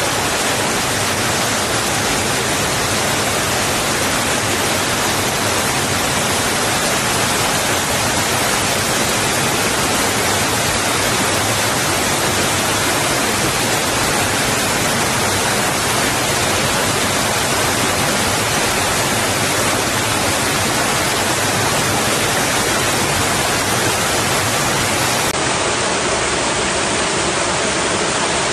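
Water rushing against rocks: a steady, even rush with no breaks or separate splashes.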